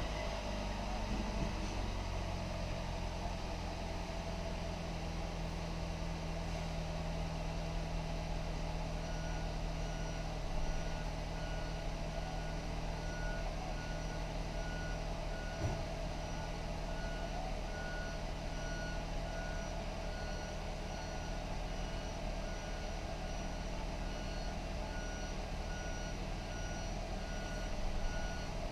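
2016 Hyundai Sonata 2.4L four-cylinder engine idling steadily after a rev. From about a third of the way in, a steady repeating electronic beep sounds alongside it.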